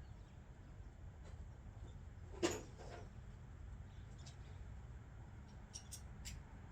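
Hand tools such as sockets being handled: one sharp metallic clink about two and a half seconds in with a short ring, then a few faint light clicks near the end, over a steady low rumble.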